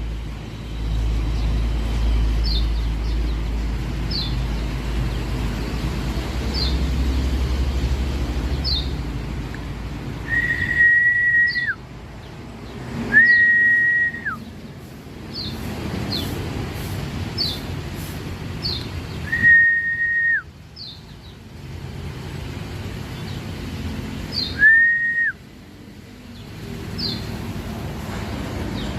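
Lombok white-eyes (pleci) calling: short, high chirps repeated every second or two. Four louder, long, steady whistles, each ending in a quick drop in pitch, come about a third, halfway and near the end of the way through, over a low background rumble.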